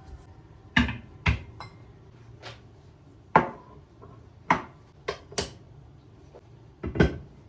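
Kitchenware clattering: a series of sharp, irregular knocks and clinks of dishes and utensils being handled, about eight in all, a few of them briefly ringing.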